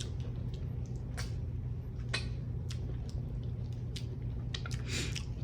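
Quiet mouth sounds of eating: scattered soft, wet clicks and smacks of chewing over a steady low hum.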